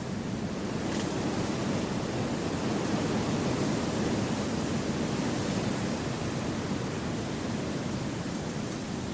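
Wind blowing through a forest: a steady low rushing that swells a little around the middle and eases off again.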